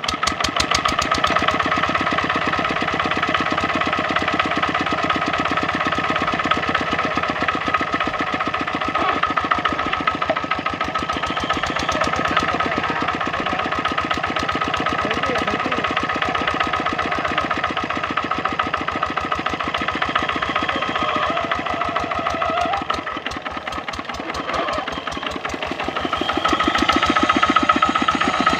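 Kubota RD65 single-cylinder diesel engine of a Quick Capung Metal two-wheel hand tractor running steadily with a rapid, even firing beat, growing louder near the end.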